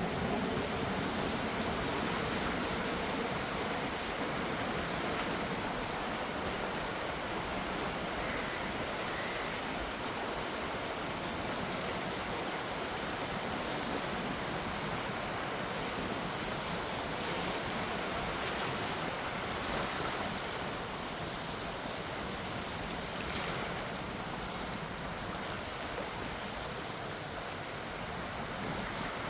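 Gentle sea waves making a steady wash of water. A faint low hum fades out over the first few seconds.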